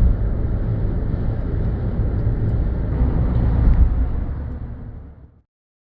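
Loud, steady low rumbling noise that cuts off abruptly about five and a half seconds in.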